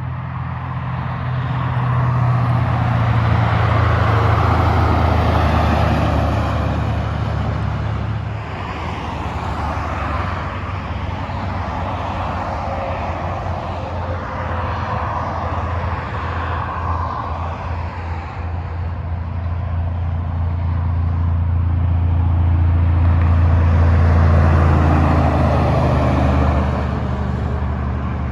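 Freeway traffic: trucks and other vehicles passing, tyre and wind noise swelling and fading, over a steady low engine drone. The loudest passes come a few seconds in and again near the end.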